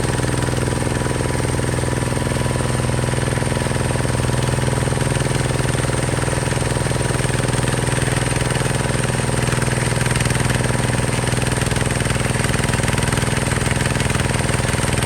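Hinota HG Gold 155 DI tractor's diesel engine running steadily at a constant speed with a loud, even low hum.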